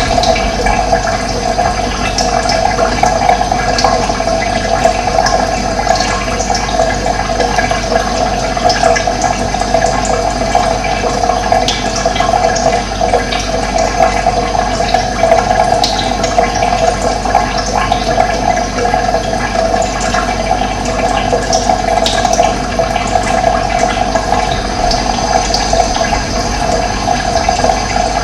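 Running water rushing steadily, with birds chirping briefly here and there over it.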